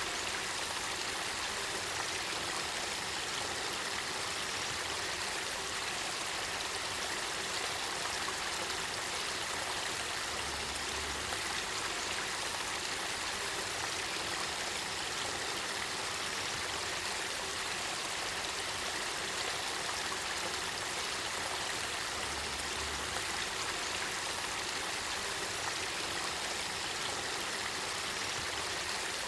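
Spring-fed river water flowing with a steady, even rushing sound that does not change.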